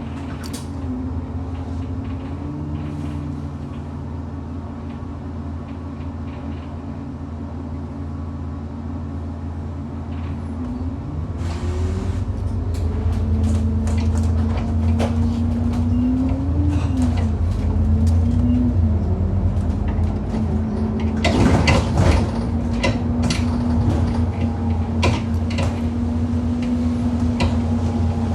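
Bus engine heard from inside the saloon, running steadily and then pulling away about 11 seconds in with rising engine pitch. Sharp knocks and rattles follow on the move, heaviest about 21 seconds in: the loud knocking this bus makes over potholes.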